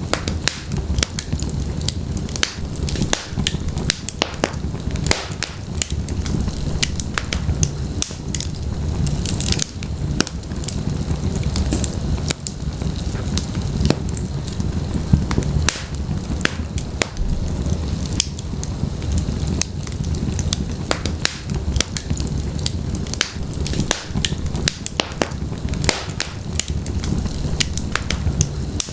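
Wood fire of burning logs in a fireplace crackling and popping continuously, many sharp snaps over a steady low rumble of the flames.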